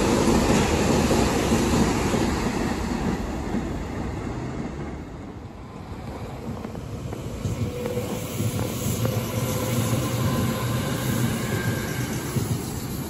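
Meitetsu electric trains running past on the line: a close passing train's rumble dies away over the first few seconds, then a second train approaches and the noise builds again with a faint motor whine that climbs in pitch.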